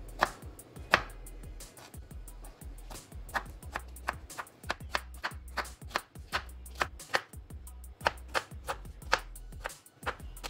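Kitchen knife chopping strawberries on a plastic cutting board: a quick, irregular run of sharp taps as the blade strikes the board, several a second, over background music.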